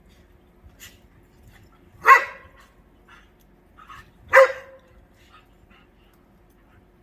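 A dog barking during play, two loud barks about two seconds apart, with a few fainter short sounds around them.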